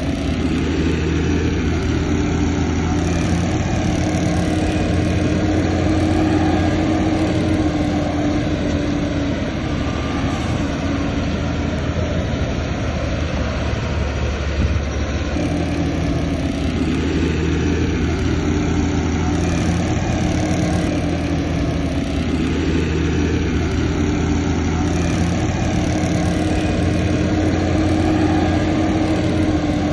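Diesel engine of heavy earthmoving equipment running continuously, its note rising and falling every few seconds as the machine works.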